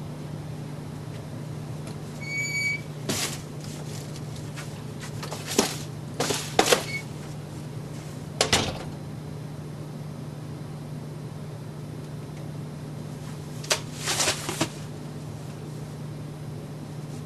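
A steady low hum under a short electronic beep about two and a half seconds in, then scattered knocks and clatters, the loudest clusters about 6 and 14 seconds in.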